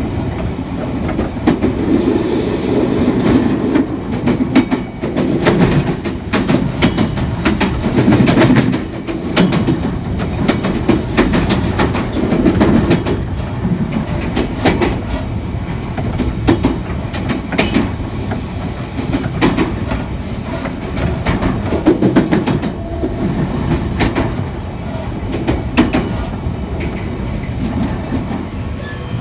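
JR East E129 series electric train running at speed: a steady rumble that swells and eases, with the wheels clattering over rail joints in a string of sharp clicks.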